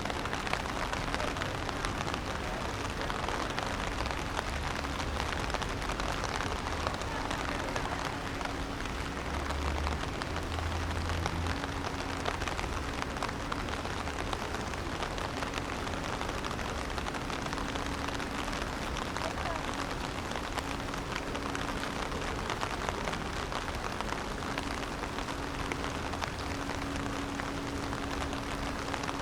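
Steady rain falling and pattering on surfaces, an even hiss with no breaks, with a faint steady low hum coming and going underneath.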